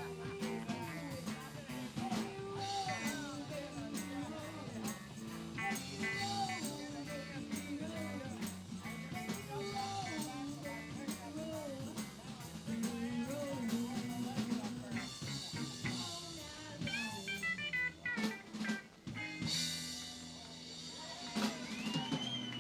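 Live blues band playing, with drum kit and guitar, and lines that bend in pitch over a steady beat. A long high note is held near the end.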